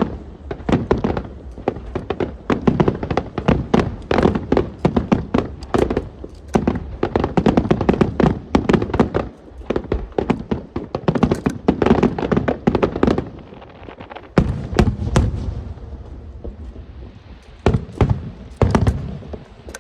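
Aerial fireworks going off in rapid succession: a dense run of sharp bangs and crackles, several a second, over a deep rumble, thinning out in the last few seconds with a few more bangs near the end.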